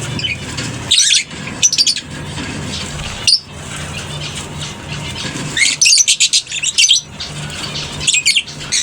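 Lovebirds in an aviary colony giving shrill chattering calls in short bursts, busiest a little past halfway, over a steady low hum.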